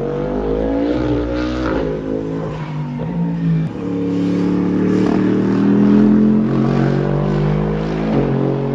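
Lexus LFA successor prototype's reportedly twin-turbo V8 running hard under acceleration, its note rising, breaking a little under four seconds in and then holding high.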